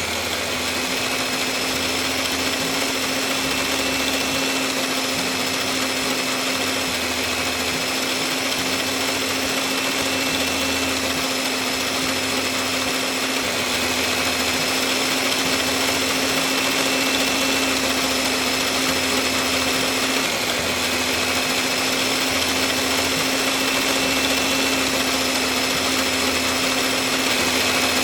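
A small motor running steadily with an even, high-pitched hum, dipping slightly in pitch once about twenty seconds in.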